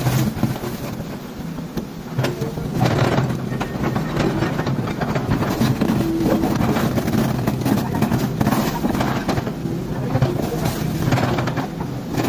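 Heavy machinery running with a steady low rumble, broken several times by short crashes or knocks, typical of concrete being broken up in a bridge demolition.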